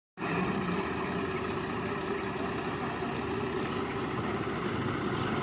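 Ford 3610 tractor's three-cylinder diesel engine running steadily, starting a fraction of a second in.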